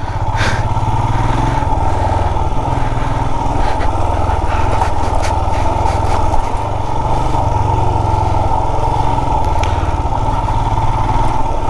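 Motorcycle engine running steadily while riding over a rocky off-road trail, with scattered brief knocks and clatter over the steady running.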